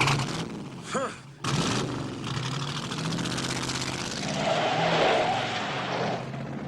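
A car driven hard: the engine runs loud under acceleration, with tire and road noise, starting abruptly and swelling toward the loudest point about five seconds in.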